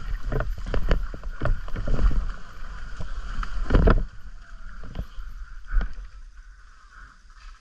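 Wind buffeting a bike-mounted camera microphone while riding a muddy trail, with irregular knocks and clatter from the rough ground. The loudest knock comes just before four seconds in, and after that it goes much quieter.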